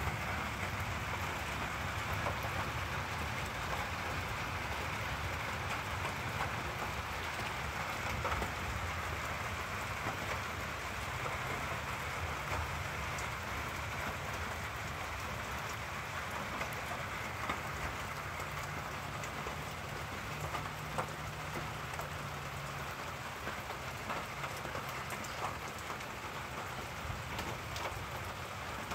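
Steady rain during a thunderstorm, an even hiss with many scattered drops ticking close by. A low rumble comes and goes under it for several seconds in the middle.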